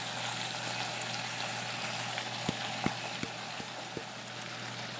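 Ground beef patties and sliced potatoes sizzling steadily in a frying pan. About halfway through come five quick sharp clicks of a spoon against a tin can as canned chili with beans is scraped out.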